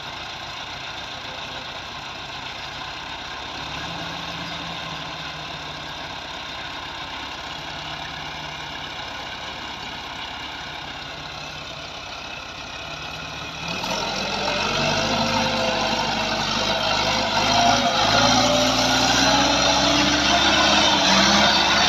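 Massey Ferguson 265 tractor's diesel engine running steadily while driving a thresher. About fourteen seconds in, the sound suddenly gets much louder and fuller, with wavering pitch, and stays that way.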